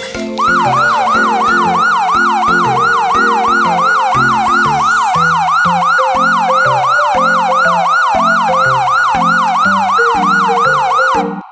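Electronic police-style siren yelping fast, about three sweeps a second, over a background melody. It starts about half a second in and cuts off suddenly near the end.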